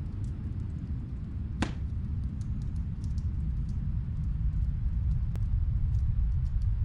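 Snowstorm wind as a steady low rumble, building slightly toward the end, with the faint crackle of a wood fire in another room and one sharper pop about a second and a half in.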